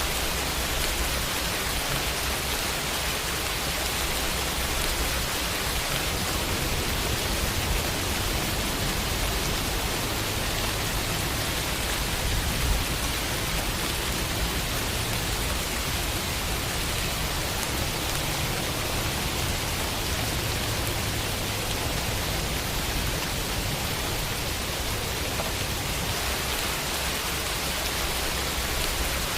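Steady rain falling on a window, a dense even patter and hiss, with a low rumble that swells through the middle of the stretch.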